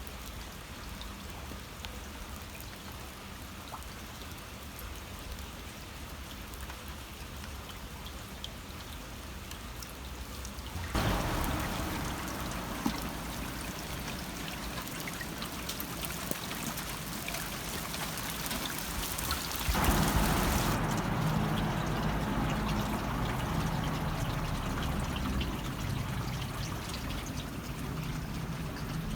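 Shallow water trickling and babbling along a channel, a steady splashing wash that grows louder about eleven seconds in and again near twenty seconds in.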